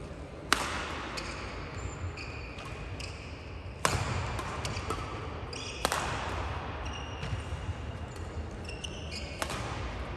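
Badminton rally in an indoor hall: four sharp racket hits on the shuttlecock, each with a short ring-out. Brief high-pitched shoe squeaks on the court floor come between the hits.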